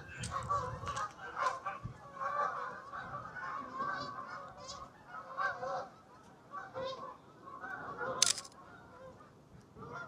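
A flock of geese honking, many overlapping calls, thinning out toward the end as the flock takes off. A short sharp click about eight seconds in.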